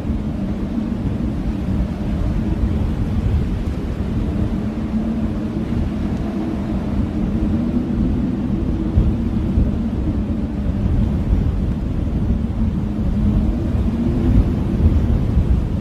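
Strong blizzard wind howling: a steady low rumble with a wavering howl in it that swells and eases slightly.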